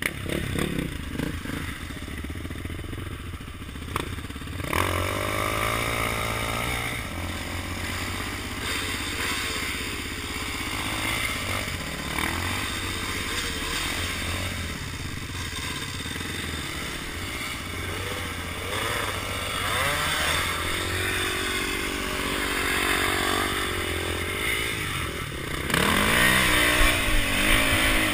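Dirt bike engine running and revving up and down again and again as it is ridden, louder for the last couple of seconds.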